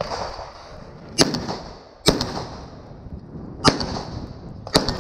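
Four gunshots at uneven intervals, each followed by a short echo.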